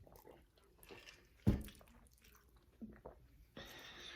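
Close-miked eating sounds: small wet clicks of chewing and biting, with a single heavy thump about a second and a half in and a brief hiss-like rustle near the end.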